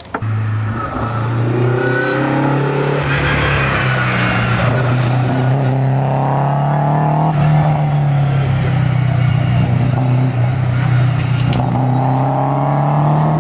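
A car engine running under load at fairly steady revs, its pitch rising and falling gently. The sound starts and stops abruptly.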